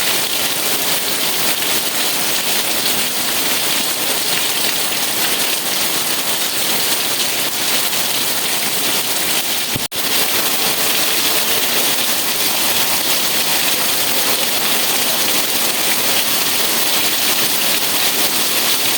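Steady heavy rainfall, an even hiss of drops on surfaces. It cuts out for an instant about halfway through, then carries on unchanged.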